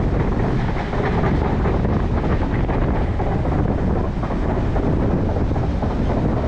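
Diesel-hauled train running along the track, a steady loud rumble with some clacking from the wheels, and wind buffeting the microphone.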